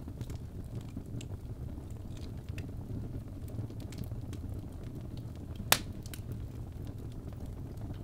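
Birch logs burning in a fireplace: a steady low rumble of flames with scattered small crackles, and one loud sharp pop about three-quarters of the way through.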